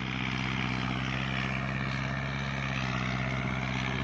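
Kubota tractor's diesel engine running steadily under load while rotary-tilling a wet field.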